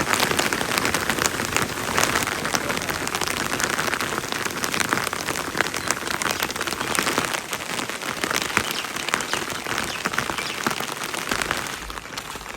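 Steady rain falling, a dense hiss made of countless small drop hits, easing a little near the end.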